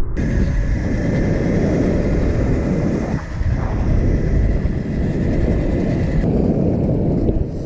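Small motorbike engines running during a ride, with a dense low rumble throughout. A thin, steady high whine comes in just after the start and cuts off about six seconds in.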